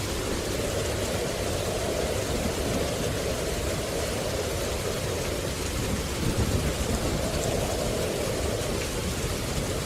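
Steady rushing noise with a low rumble underneath, heaviest in the low and lower-middle range, unbroken throughout.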